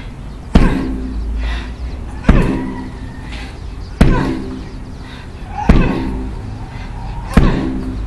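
Weighted tornado ball (about 8.8 lb) slammed hard against a wall: five sharp smacks, evenly about every second and three-quarters, each with a short ringing tail.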